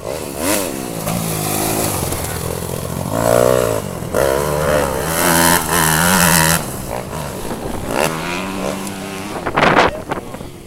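Motocross bikes revving and passing, their engine pitch rising and falling as they accelerate and ease off, with one bike revving hard and close just before the end.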